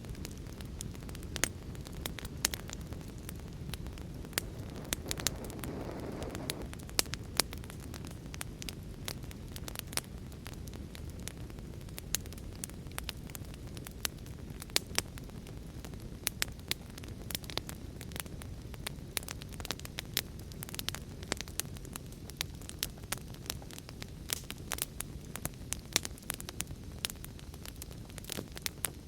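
Wood fire crackling in a fireplace: frequent, irregular sharp pops and snaps over a low, steady rumble of the flames, with a short swell of flame noise about six seconds in.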